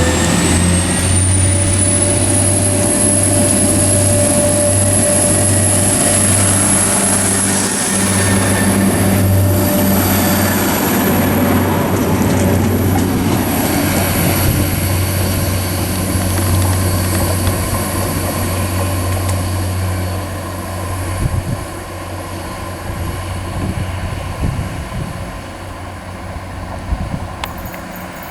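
Diesel multiple-unit train running through the station: a steady low engine drone under a high whine that rises in pitch over the first two seconds and then holds, the whole sound growing quieter over the last several seconds.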